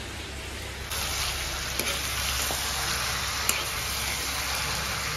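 Chicken pieces sizzling in hot oil in a wok while being stirred with a metal spatula, with a few light scrapes and clicks. The sizzling grows louder about a second in.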